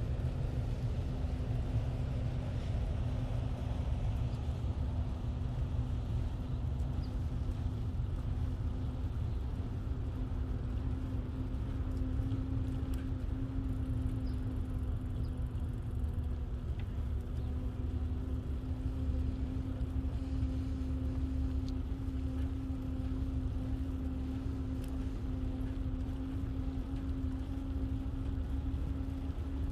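Steady low rumble from a bicycle rolling along a paved path, mixed with wind on the microphone, and a steady hum running through it. A few faint ticks come through now and then.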